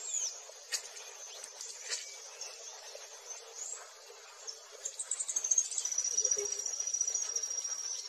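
Birds singing: high, thin chirps and gliding notes, then from about five seconds in a quick run of high notes that runs into one long, high, steady note. Two short clicks sound in the first two seconds.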